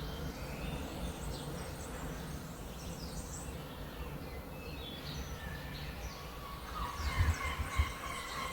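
Small birds chirping and twittering in short repeated calls over a steady low outdoor rumble, with a couple of brief low bumps near the end.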